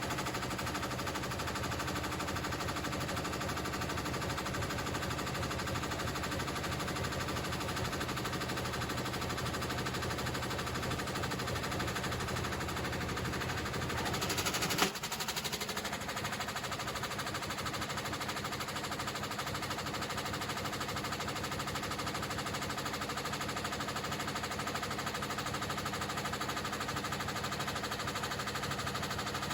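Washing machine running hard with a fast, continuous rattling knock. About halfway through there is one sharp crack, after which the low rumble drops away.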